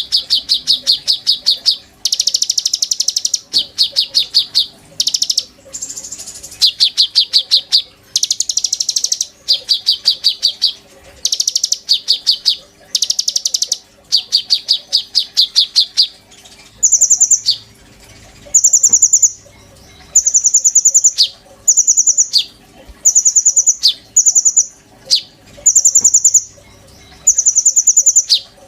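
Konin songbird calling in rapid trills about a second long, one after another with short gaps. Past the middle the trills turn higher-pitched and shorter.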